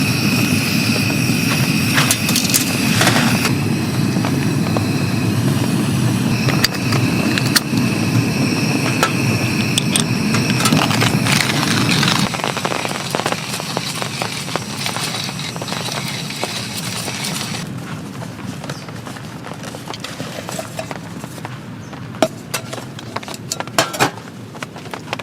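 Rain falling, with scattered drops ticking sharply around the campsite; a low rumble under it fades out about halfway, leaving the drip ticks more exposed.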